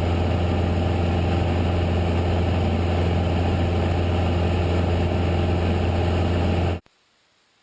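Cessna 172's engine and propeller making a steady, loud low drone as heard in the cabin. It cuts off abruptly near the end.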